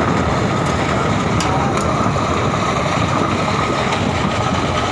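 A motor vehicle engine running steadily: a dense, unbroken low rumble with a faint steady whine above it.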